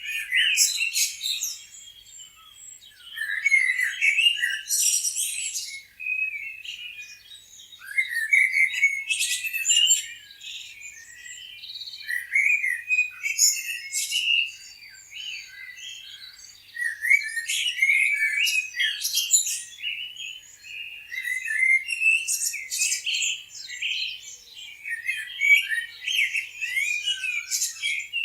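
Songbirds chirping and singing, with many calls overlapping in bursts that come every three to four seconds between quieter gaps.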